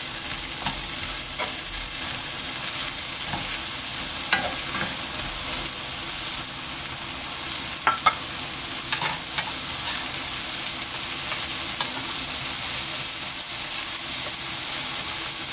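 Whole shell-on shrimp sizzling in hot olive oil in a nonstick wok, a steady hiss, stirred with a wooden spatula at first. A few short sharp clicks come about four, eight and nine seconds in.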